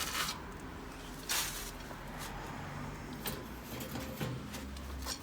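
Short rustles and light handling noises of a cloth being tucked under a boiler's filling loop, two brief rustles near the start, then a few faint ticks over a low hum.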